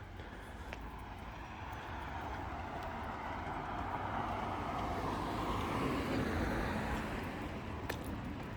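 A car driving past, its road noise swelling gradually to a peak about five to six seconds in and then fading.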